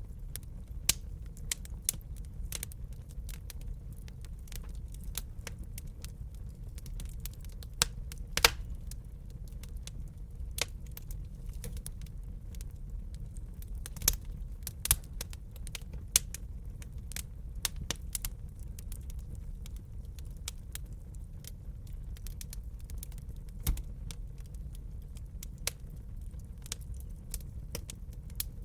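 Wood burning in a fireplace: irregular sharp pops and snaps, a few much louder than the rest, over a low steady rumble.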